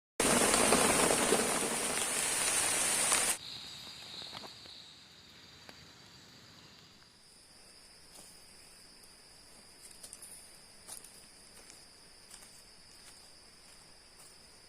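Heavy rain hissing loudly for about three seconds, then cut off suddenly. After that, quiet forest ambience: insects droning in steady high tones, with a few small ticks.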